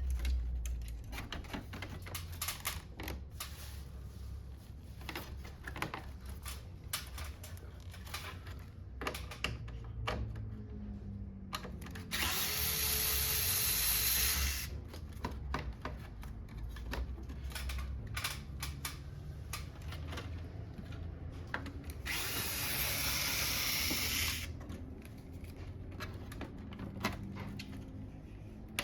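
Electric screwdriver running in two bursts of about two and a half seconds, about 12 and 22 seconds in, driving out screws during the disassembly of an air conditioner. Between the runs, short clicks and knocks of handling screws and plastic parts.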